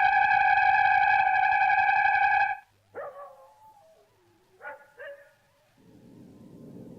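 A steady, eerie synthesizer tone that cuts off abruptly about two and a half seconds in, followed by a few short gliding, warbling electronic sounds and then a low rumble swelling in near the end.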